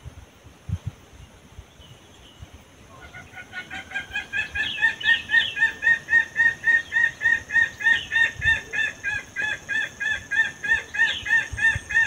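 A bird calling over and over, starting about three seconds in: a short, pitched note repeated very evenly about three times a second.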